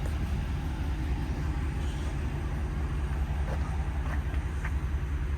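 Steady low rumble of a vehicle engine idling, with a few faint clicks in the second half.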